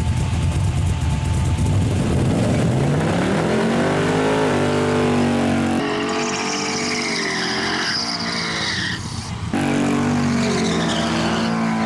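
Drag-racing pickup truck's engine revving up and held at high revs with tires squealing, as in a burnout. The sound breaks off abruptly about nine and a half seconds in, then resumes.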